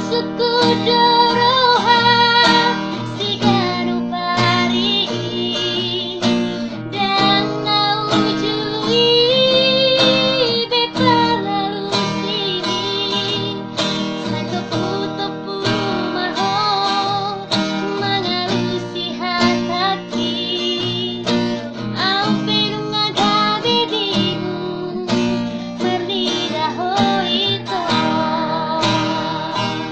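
A woman singing with acoustic guitar accompaniment, her voice wavering with vibrato on long held notes.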